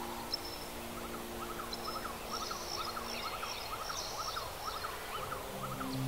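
Birds chirping, with a short call repeated about twice a second and higher trills over it. Sustained tones of ambient music fade out in the first few seconds, and new low tones come in near the end.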